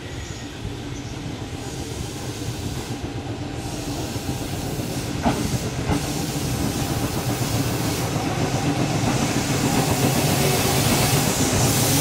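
Tobu 6050 series electric train pulling into a station platform, its running noise growing steadily louder as the carriages roll past. Two sharp clicks from the wheels come about five and six seconds in, and a hiss rises toward the end.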